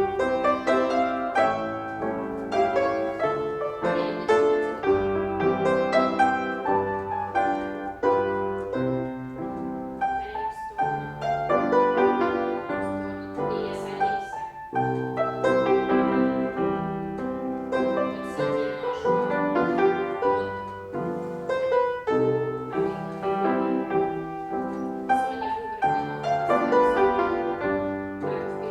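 Piano playing ballet-class accompaniment: a continuous, evenly paced run of chords and melody.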